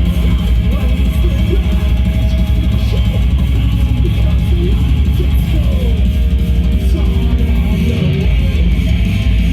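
Live metal band playing loud, with distorted electric guitars filling the sound and melodic lines bending up and down in pitch.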